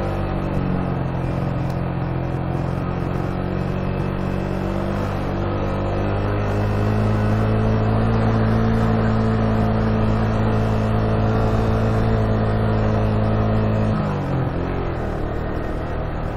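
Motorcycle engine running steadily under way, its pitch edging slightly upward and then dropping abruptly about fourteen seconds in.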